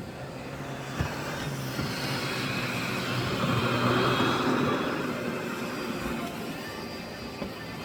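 Miele Blizzard CX1 bagless cylinder vacuum cleaner running, a steady motor hum with a thin high whine, swelling louder around the middle as the floor head is worked. There is a single click about a second in.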